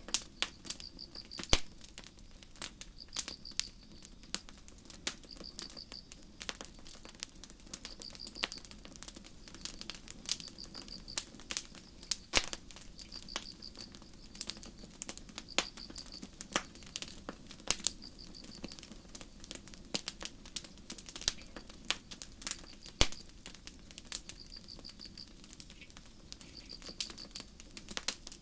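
Campfire crackling with frequent sharp pops over a low, steady rumble of the burning wood, and a cricket chirping in short pulsed chirps every second or two.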